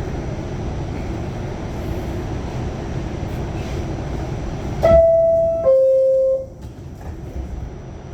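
Steady low rumble of a Pullman Standard R46 subway car. About five seconds in, a loud two-note falling chime sounds, each note held nearly a second: the door chime warning that the doors are about to close.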